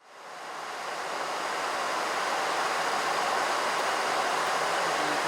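Steady rushing cockpit noise of a Boeing 737NG in flight, fading in over the first second.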